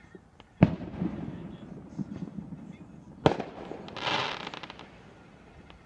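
Fireworks: two sharp bangs about two and a half seconds apart, each with a rumbling tail. The second bang is followed by about a second of crackling.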